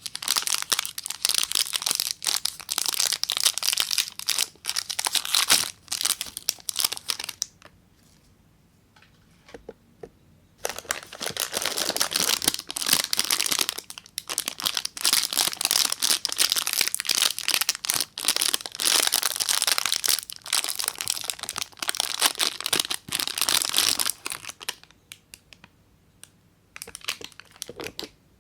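Soap packaging crinkling and tearing as it is unwrapped by hand, in long runs of dense crackling with a pause of about three seconds early on and a few scattered crinkles near the end.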